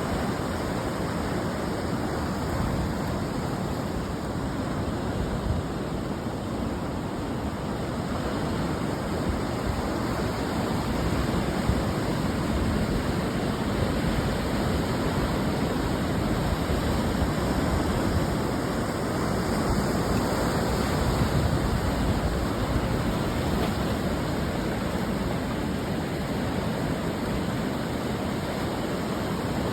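Ocean surf washing on the shore: a steady, continuous rush of breaking waves, swelling and easing slowly in loudness.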